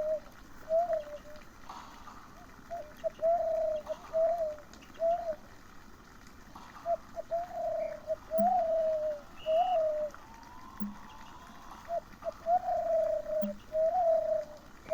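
A person imitating a dove's call by voice: repeated soft coos in phrases of four or five, each phrase followed by a short pause.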